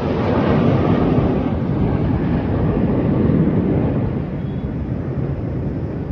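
Fighter jet's engine noise, a loud rumbling rush that slowly fades and loses its high end as the jet moves away.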